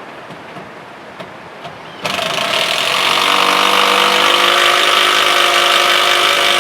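A power tool motor starts about two seconds in and runs loud and steady, a high hum with a strong hiss, then cuts off suddenly near the end.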